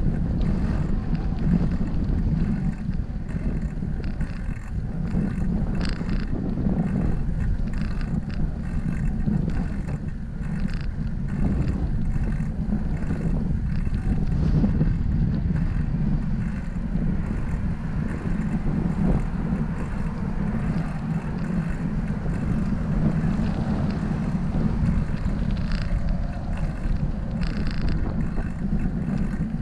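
Wind buffeting the microphone of a camera on a moving bicycle: a steady low rumble, with a few faint clicks and knocks.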